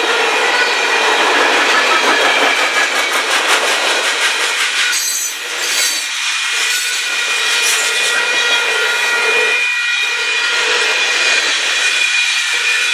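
Freight train cars rolling past: steel wheels on rail making a steady rumble with sustained metallic ringing tones and regular clicks over the rail joints.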